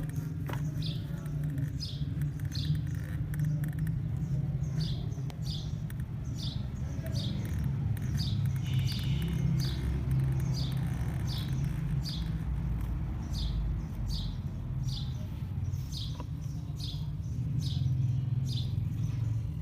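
A bird repeating a short, high chirp about once a second, over a steady low hum.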